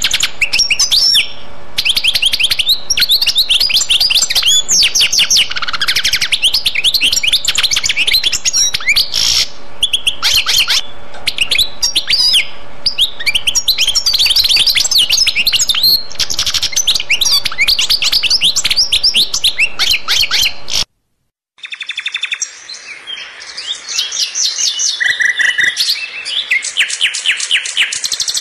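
Birds chirping in a fast, dense, unbroken run of quick high chirps. About three-quarters of the way through the sound cuts out for under a second, then the chirping resumes.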